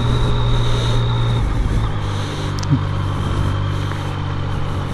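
Yamaha MT-09's inline three-cylinder engine running at a steady cruising note while riding; the pitch eases slightly lower about a second and a half in.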